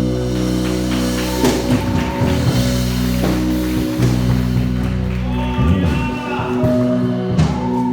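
Live church worship band music: long held chords over bass, with guitar and drum hits and a voice joining in briefly near the end.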